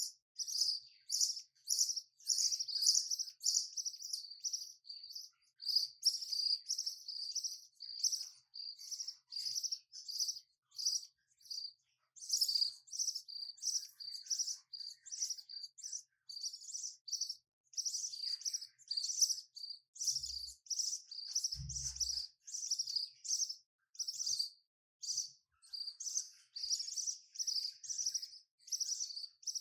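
Budgerigars chirping: a long, unbroken run of short, high-pitched chirps, about three a second, with a few brief pauses.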